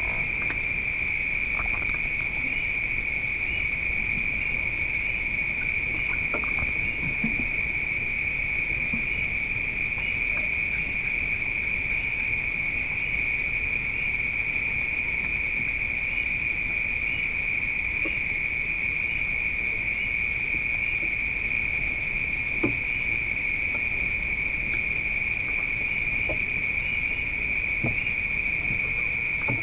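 Steady chorus of crickets, a continuous high-pitched shrill in two pitches, one higher and one lower, with a few faint knocks.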